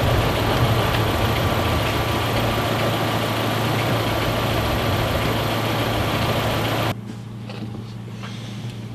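A car engine idling steadily: the donor car on the other end of the jumper leads, running to jump-start the dead car. About seven seconds in, the sound drops sharply to a quieter low hum.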